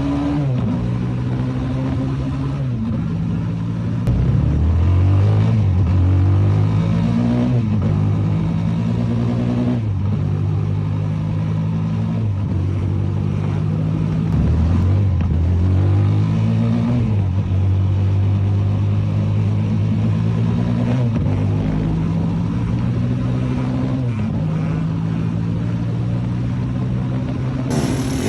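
Motorbike engine running under throttle, its pitch climbing and dropping back over and over as it is revved and eased off.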